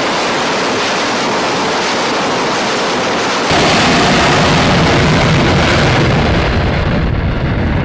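Carrier aircraft engine running at high power at the catapult position, a loud steady roar mixed with wind on the microphone. It gets louder and deeper about three and a half seconds in.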